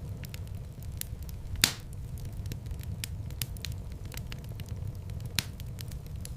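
Wood fire in a fireplace crackling over a steady low rumble of flames, with many small ticks and two louder pops, the loudest about one and a half seconds in and another near the end.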